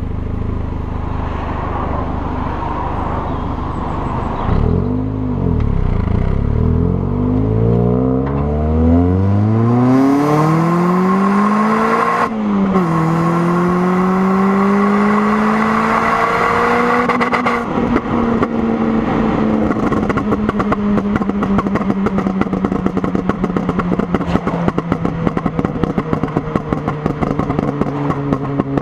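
Peugeot 206 GTi 180's 2.0-litre four-cylinder engine through a Powerflow cat-back exhaust. It runs steadily, then accelerates with a rising note, dips briefly at a gear change about twelve seconds in, and pulls again. About seventeen seconds in it lifts off, and the note falls slowly with rapid crackling on the overrun.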